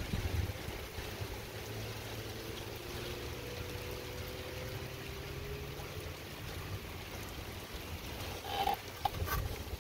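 Pouring rain falling steadily, with a faint low hum and faint higher tones under it through the middle. A couple of sharp taps near the end.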